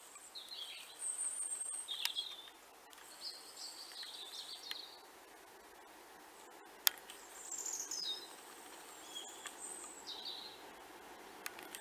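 Small songbirds chirping and singing in short, high warbling phrases over faint background noise, with a couple of sharp clicks.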